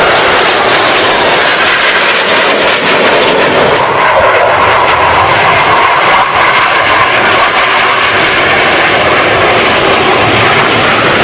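Blue Angels F/A-18 jet flying past, a loud steady roar of its engines with a faint whine running through it.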